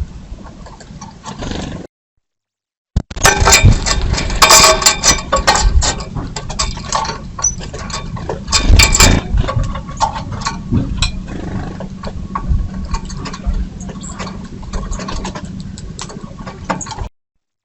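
Birds jostling at a feeder right by the trail camera's microphone: a dense, irregular clatter of knocks, clicks and wing flutters over a low steady hum. The sound drops out to dead silence for about a second near the start and again near the end.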